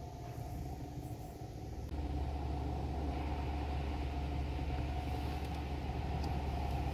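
Steady low mechanical rumble with a faint constant tone above it, stepping up louder about two seconds in and then holding steady.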